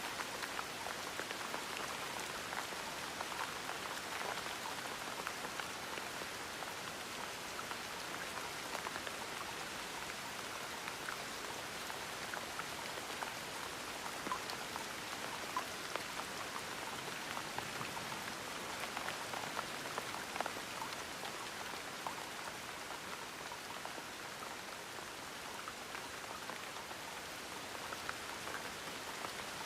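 Steady gentle rain, with scattered small drop ticks falling on a surface.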